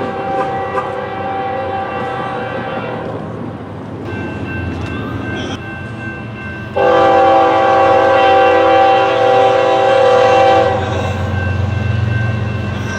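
Locomotive air horn blowing long blasts: one fades out about three seconds in, and a louder one begins about seven seconds in and holds for about four seconds. A low train rumble grows near the end.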